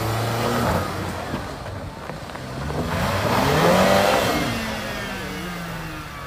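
Land Rover Discovery Sport's engine revving under load on a steep sand bank, the pitch climbing to a peak about four seconds in and then easing back off.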